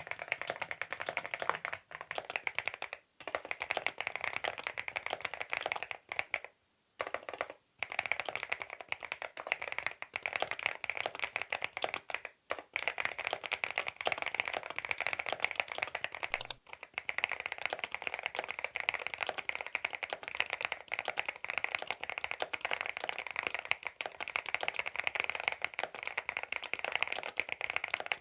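Fast continuous typing on a CIDOO V87 aluminium-case mechanical keyboard with linear switches, with brief pauses between runs.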